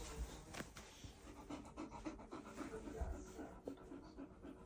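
A dog panting quickly and evenly, about four breaths a second.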